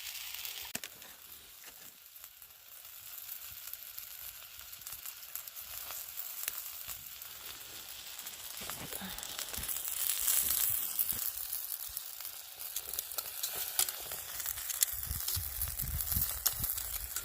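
Chicken sizzling as it bakes on a hot rock over a campfire: a steady hiss dotted with many small crackles and pops, with a low rumble coming in near the end.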